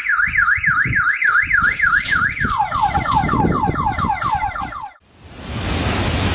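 Car alarm siren warbling rapidly up and down, switching about halfway through to a run of quick falling sweeps, and cut off suddenly about five seconds in. A rumbling noise runs under it, and after the cut a steady rushing noise follows.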